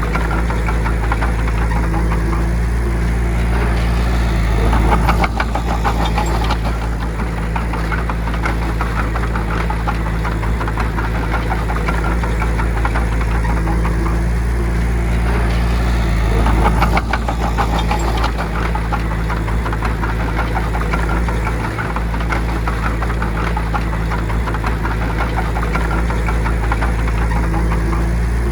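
Bulldozer's diesel engine running steadily under load, swelling louder with a fast clatter about five seconds in and again about seventeen seconds in.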